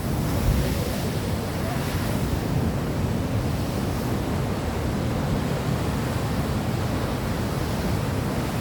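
Steady rushing noise of surf and wind, with a heavy low rumble.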